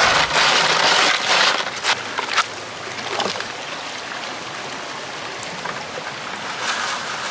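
Creek water running, louder and rushing for the first two seconds or so, then settling to a steady flow.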